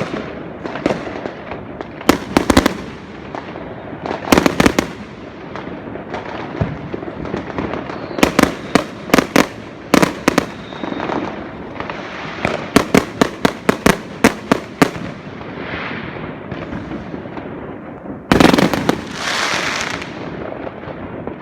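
Fireworks going off: sharp bangs one after another, with rapid runs of crackling pops, and a louder crackling burst lasting a few seconds near the end.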